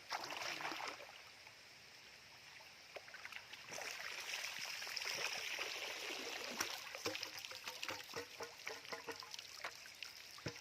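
Shallow water splashing and trickling, with scattered light knocks, as someone moves about in it. The water sound swells about four seconds in, then gives way to a run of small knocks and drips.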